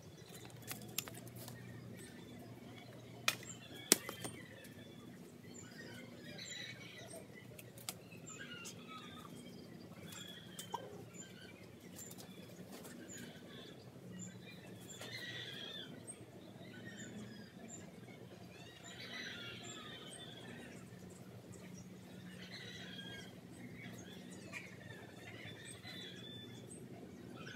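Small birds chirping in short scattered bursts over a steady low hum, with a couple of sharp clicks about three to four seconds in.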